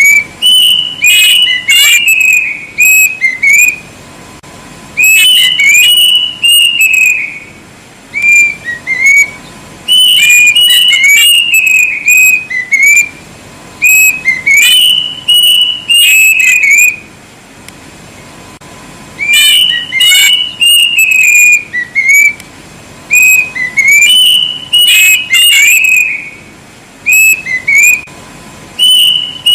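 Plaintive cuckoo (kedasih) singing loudly: repeated phrases of clear whistled notes that step down in pitch, a new phrase about every four to five seconds.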